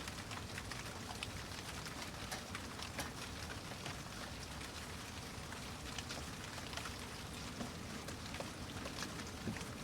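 Steady rain with scattered close drops pattering on a surface.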